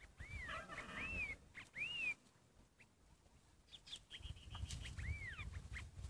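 A bird calling with arched whistled notes that rise and fall, three in quick succession at the start and one more about five seconds in, among a few short chirps. Under them, low rustling and crunching of branches and leaves as a young elephant browses.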